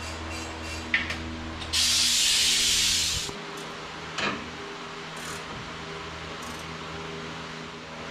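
A single loud hiss of spray or air, about a second and a half long, starting just under two seconds in, with a small click before it and a short knock a second after it, over a steady shop hum.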